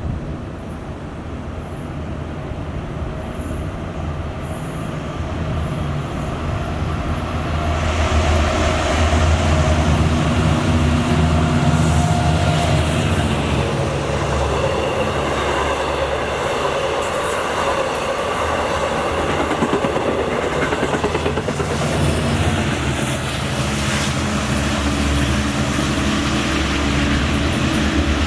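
Long Island Rail Road diesel-hauled passenger train going by: locomotive engine running under a steady rumble of wheels on rails, growing louder about eight seconds in, with a rapid clatter of wheels over rail joints around twenty seconds in.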